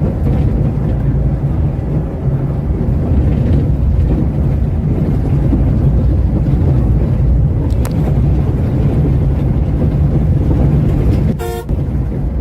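Scania K410 multi-axle coach under way, a steady low rumble of engine and road, with a brief horn toot near the end.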